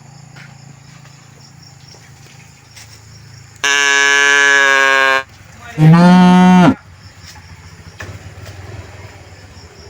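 Cattle mooing: two loud calls, a higher, steady moo lasting about a second and a half a little under four seconds in, then a shorter, lower moo about two seconds later.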